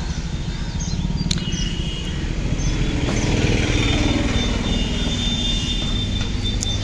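Road traffic: a motor vehicle engine rumbling past, swelling in level and pitch near the middle, with a sharp click a little over a second in.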